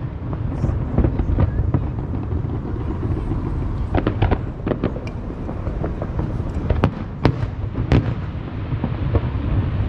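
Fireworks display: a constant low rumble of bursts with many sharp cracks and bangs scattered through, a cluster of them about four seconds in and single loud bangs near the end.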